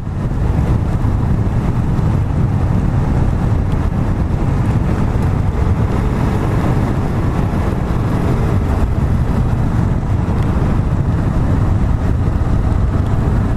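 Kawasaki Vulcan S motorcycle being ridden: steady wind rush over the microphone with the engine running underneath.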